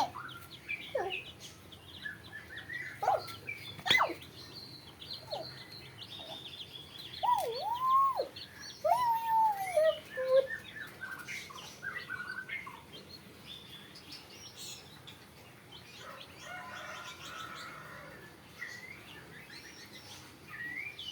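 Chicken calling: many short high chirps, with a run of louder arching, falling calls about seven to ten seconds in.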